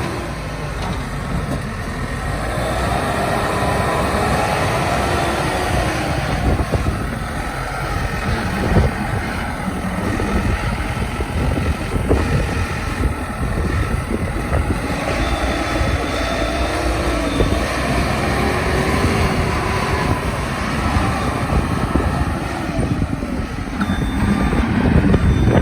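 JCB 215E backhoe loader's diesel engine running, its pitch rising and falling as the machine works.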